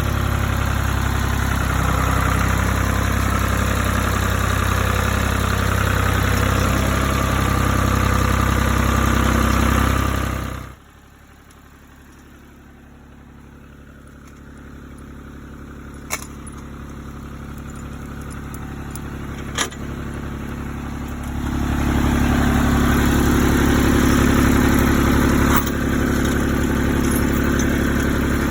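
Old Chinese Power King PK 500 tractor engine running steadily. It drops away suddenly about ten seconds in, leaving a quieter stretch with two short clicks, and runs loudly again from about twenty-one seconds in.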